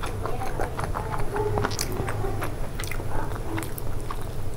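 Close-miked chewing of a mouthful of food, with many short mouth clicks throughout.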